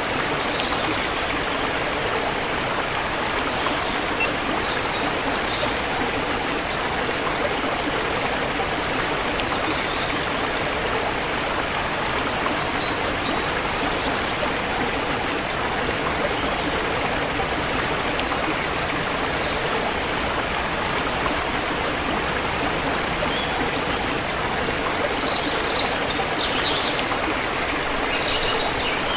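Forest river flowing steadily, with a few faint bird chirps over the water, more of them near the end.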